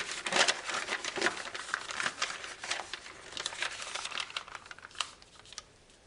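A sheet of origami foil being folded and creased by hand, crinkling and crackling in quick irregular clicks that thin out toward the end.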